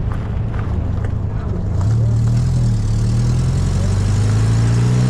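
The 1275cc four-cylinder engine of an open-top MG Midget, heard from the moving car, gets louder about two seconds in and then climbs steadily in pitch as the car accelerates.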